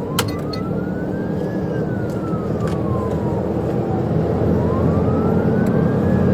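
Police siren on its slow wail, the pitch rising, falling and rising again over a few seconds, over the steady road and engine noise of a car driving at around 100 mph.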